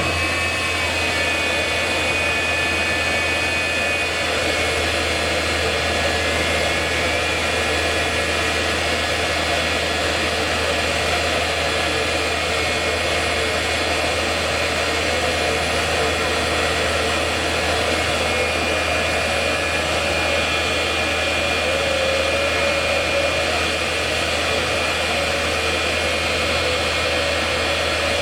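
Jet engine of the Hell Fire jet-powered semi truck running steadily at high thrust: a loud, continuous rushing noise with a high whine over it.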